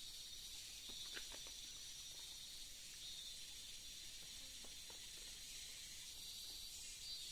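Tropical forest insect chorus: a steady high-pitched shrill that swells and eases every few seconds, with a few faint clicks about a second in and again near the middle.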